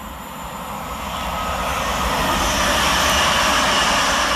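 Class 730 Aventra electric multiple unit passing through the station, a rush of wheel and air noise that builds up, peaks near the end and begins to fade.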